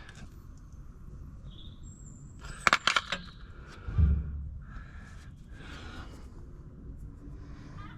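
A quick run of four or five sharp clicks or knocks about three seconds in, followed by a single low thump about a second later.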